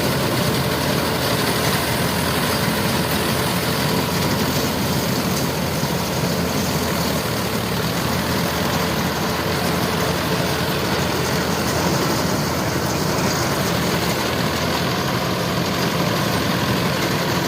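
Mini combine harvester running steadily, its engine and machinery giving an unbroken mechanical noise.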